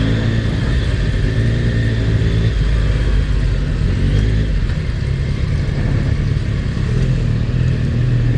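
Yamaha MT-09's three-cylinder engine running under the rider, with small changes in pitch as the throttle varies.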